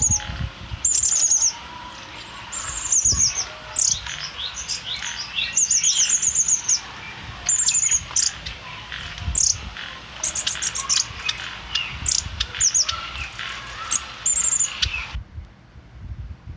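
A bird chirping: short, high, down-slurred calls given in quick runs, again and again, until the sound cuts off abruptly about fifteen seconds in.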